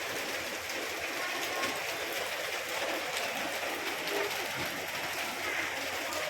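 Heavy rain falling, a steady hiss with a fine patter of drops.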